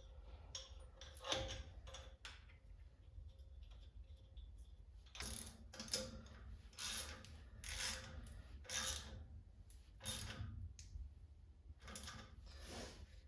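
Hand work on a race car's radiator fan and fan shroud: scattered mechanical clicks, then a run of scraping strokes about a second apart from around five seconds in.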